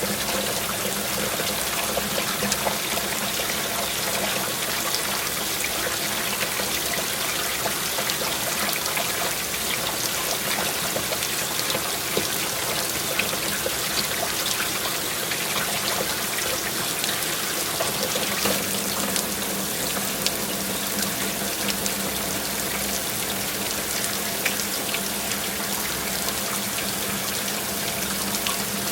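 Water pouring and splashing steadily, with many small drip-like clicks through it.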